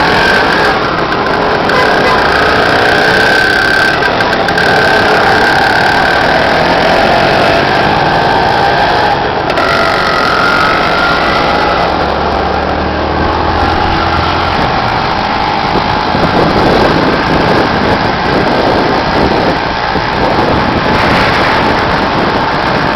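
Motorcycle ride through city traffic: steady engine and road noise, loud and unbroken.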